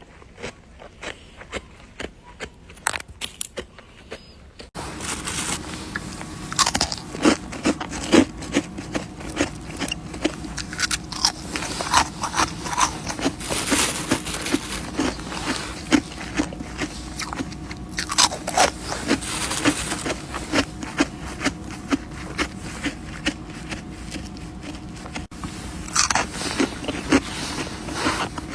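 Freezer frost being bitten and chewed close to the microphone: a dense, irregular run of squeaky, crisp crunches, sparser and quieter at first and growing louder and thicker from about five seconds in.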